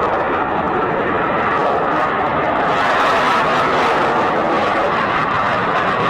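Sukhoi Su-57 fighter's twin jet engines, a loud steady rush of jet noise that takes on more high hiss from about halfway through.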